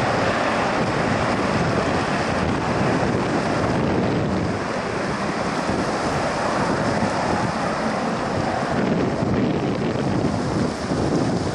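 Jet airliner engines roaring, a steady noise with wind buffeting the microphone.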